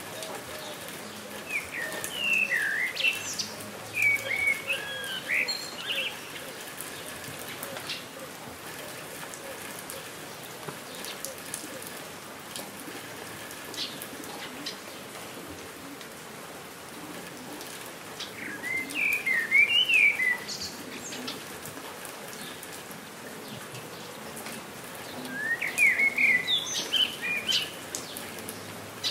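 Steady light rain pattering, with a songbird singing three bursts of quick, warbled chirping phrases: near the start, about two-thirds of the way through, and near the end.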